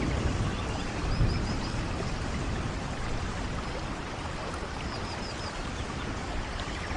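Steady rain, an even hiss, with a low rumble about a second in and two short runs of four faint high chirps.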